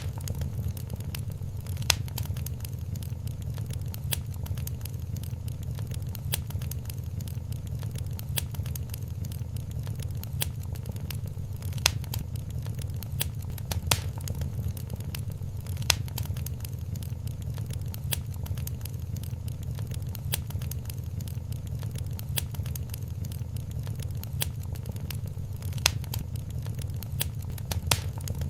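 Wood fire crackling in a fireplace: a steady low rumble under constant small crackles, with a few louder sharp pops every couple of seconds.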